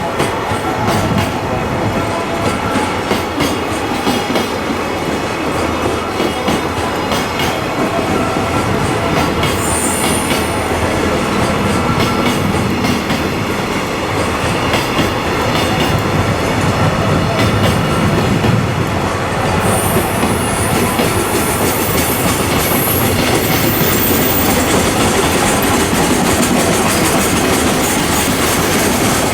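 Freight train rolling through, its wheels clattering steadily over the rail joints, with high-pitched wheel squeal about ten seconds in and again through the last third.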